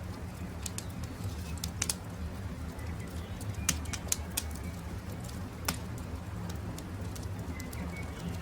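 Wood campfire crackling, with irregular sharp pops and snaps over a steady low rumble, and a few faint short bird chirps.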